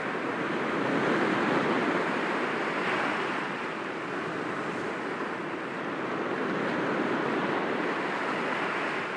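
Sea waves breaking gently against rocks: a steady wash of surf that swells about a second in and again near the end.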